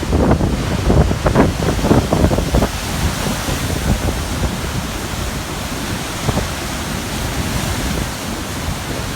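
Large ocean waves breaking on a rocky shore at high tide. A wave crashes over roughly the first three seconds with a heavy rumble and crackling spray, then settles into a steady wash of churning water, with wind buffeting the microphone.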